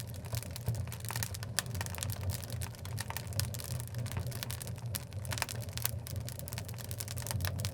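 Oak logs burning in a wood fireplace, with frequent irregular crackles and sharp pops over a steady low rumble.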